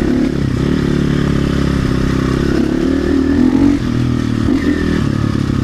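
RXB250XL dirt bike engine running under way, its pitch rising and falling with the throttle, loudest on a rev about three and a half seconds in.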